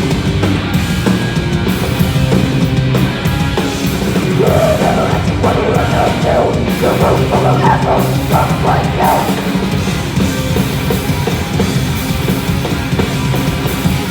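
A hardcore punk band playing loud and fast, with distorted guitars and a pounding drum kit.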